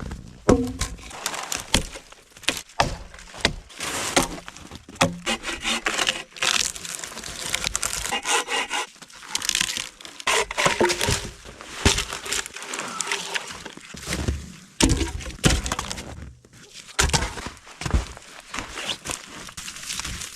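Dry branches and sticks being snapped and broken up for firewood: a run of irregular sharp cracks with rustling between them.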